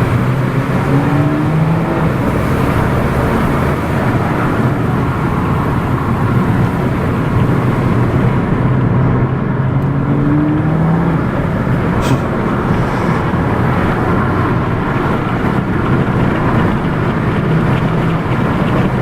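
Car driving at a steady cruising speed: a constant engine drone with road and wind noise, and a brief click about 12 seconds in.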